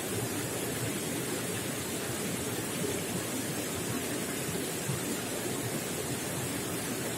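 Running water gurgling and splashing in a steady, unbroken stream.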